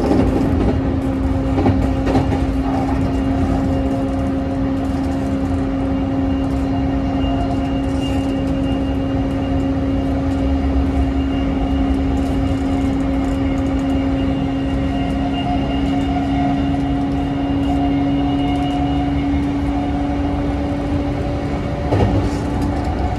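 Running sound inside an E235-1000 series electric train travelling at steady speed: a continuous rumble of wheels on rail with a steady hum, and a couple of short knocks, one about two seconds in and one near the end.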